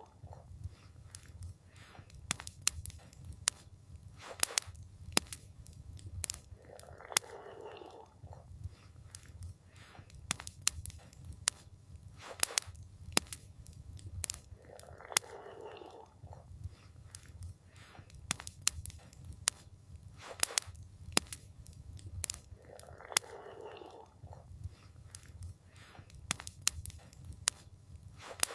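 Wood campfire crackling, with frequent sharp pops and snaps over a low steady rumble. A soft rushing swell returns about every eight seconds.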